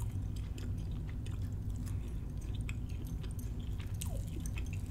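Close-miked chewing of crab cake: small wet, crackly mouth clicks over a steady low hum, with light scrapes of a fork cutting into a fried crab cake.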